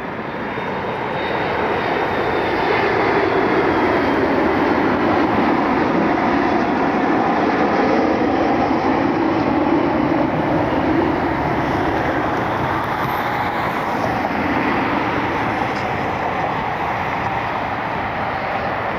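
McDonnell Douglas MD-88 jetliner landing, its tail-mounted Pratt & Whitney JT8D turbofans making a loud, steady jet noise. The noise swells over the first few seconds, then holds with a faint falling whine above it early on.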